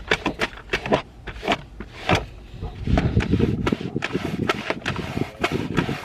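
ChomChom pet-hair roller rubbed back and forth over car floor carpet, picking up dog hair: a quick run of short scraping strokes, several a second, turning denser and rougher about three seconds in.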